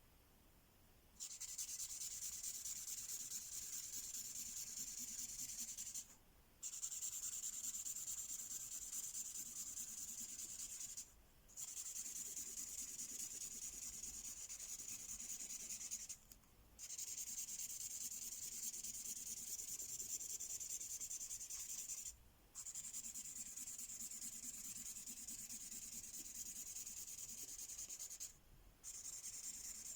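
Imagine Ink mystery-ink marker scribbling back and forth over a coloring page: a steady scratchy rubbing that starts about a second in and runs in long spells, with five short pauses.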